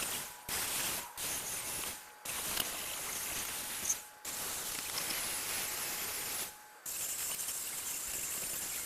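Pressurised spray hissing in long bursts, broken by five brief pauses where the flow is cut and restarted.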